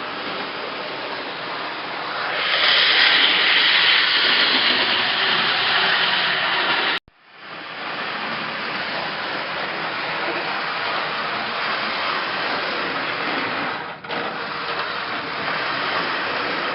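O-gauge model trains running on a layout: a steady whirring of motors and wheels on track, louder from about two seconds in, cutting out abruptly for a moment near the middle.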